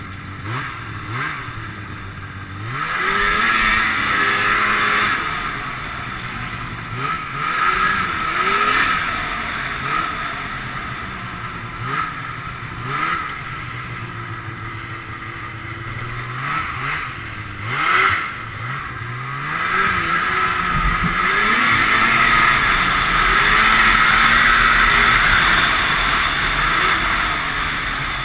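Ski-Doo Blizzard 5500 snowmobile's fan-cooled Rotax twin two-stroke engine revving up and down again and again as it is ridden, then held at high throttle for a long stretch near the end.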